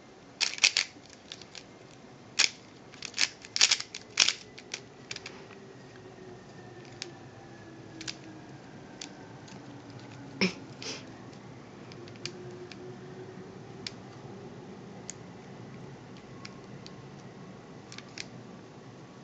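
Plastic Rubik's cube layers being twisted by hand, the pieces clicking as they turn: quick runs of clicks in the first few seconds, then sparser single clicks.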